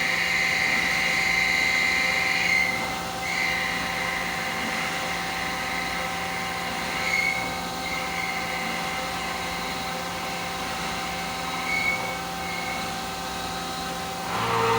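Five-axis CNC machine running: a steady hum under a high whine that is strong for the first two or three seconds, then comes back in short stretches. A louder, lower sound starts just before the end.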